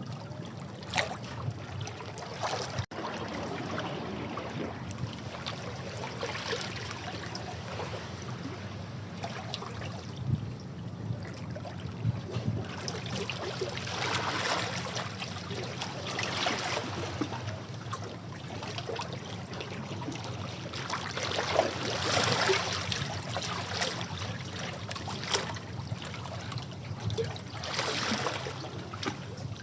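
Sea waves breaking and washing over rocks, the surf swelling up into a louder rush about every seven seconds over a steady background of churning water.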